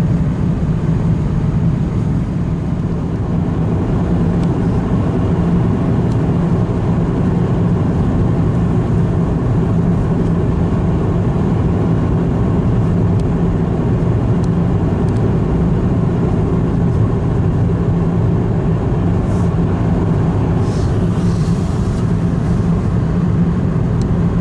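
Steady low rumble of a car on the move, heard from inside the cabin: engine and road noise with no change in pace.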